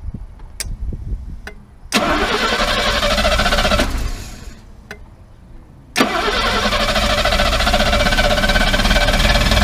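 Mercedes W114 engine being started twice: it fires about two seconds in and runs briefly before dying away, then it is cranked again about six seconds in and keeps running. The ignition timing is badly retarded, as the mechanics judge.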